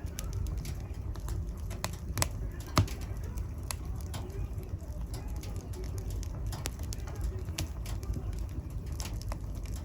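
Wood fire burning in a fireplace: a low steady rumble of flames with scattered sharp crackles and pops, the loudest a little under three seconds in.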